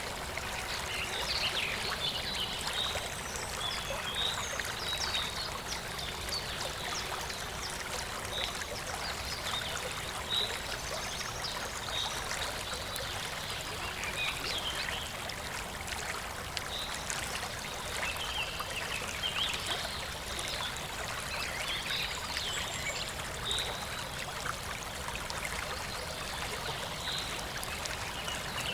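Shallow stream of clear water flowing and babbling steadily over stones. Short, high bird chirps come and go over the water, in clusters near the start and again past the middle.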